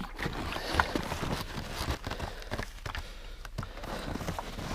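Irregular knocks, clicks and scuffs of things being handled.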